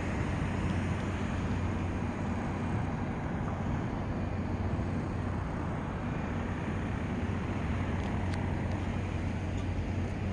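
Wind on the microphone: a steady low rumble with a constant low hum underneath.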